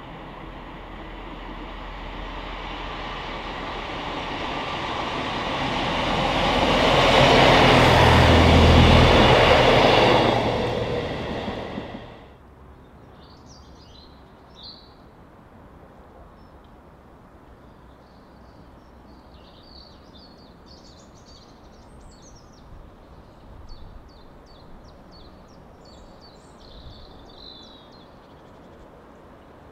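Class 158 diesel multiple unit approaching and running past close by. Its underfloor diesel engines and wheels on the rails grow louder to a peak, then the sound cuts off abruptly about twelve seconds in. After that it is quiet, with birds chirping.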